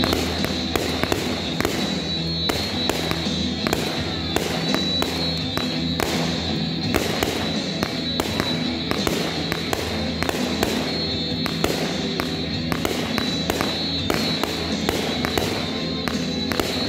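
Aerial fireworks going off in a rapid, irregular series of sharp bangs, several a second, over music played for the display.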